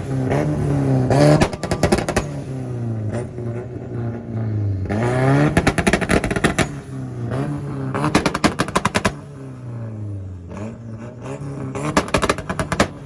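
Nissan engine revved hard against a two-step launch limiter in about four bursts, the pitch rising and falling, each burst firing a rapid, machine-gun-like string of exhaust pops and bangs.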